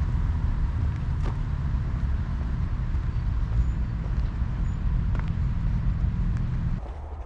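Steady low rumble of a moving vehicle, which drops off abruptly about half a second before the end, leaving a quieter, thinner background.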